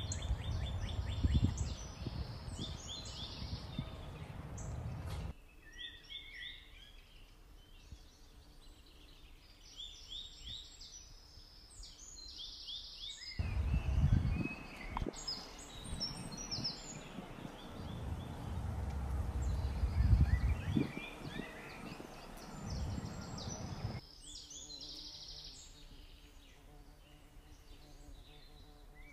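Songbirds singing and chirping, many short high calls overlapping throughout, over a low rumbling noise that cuts in and out abruptly a few times.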